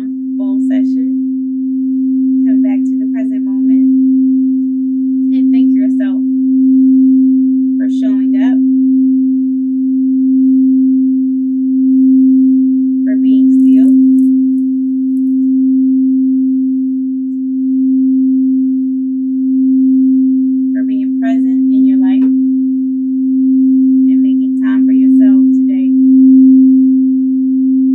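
A singing bowl sustains one steady, pure tone pitched near middle C, the note used for the root chakra, with gentle swells in loudness every couple of seconds.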